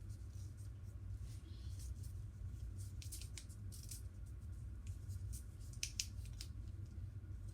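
Faint handling noises from a cut-open water-skipping ball: scattered small clicks and rustles over a low steady hum.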